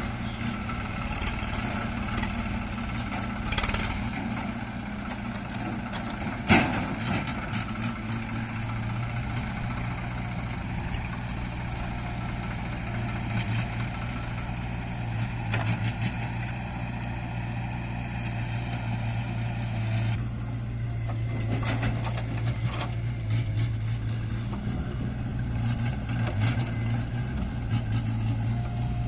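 Diesel engine of heavy farm or earthmoving machinery running steadily at low speed, with a single sharp knock about six and a half seconds in.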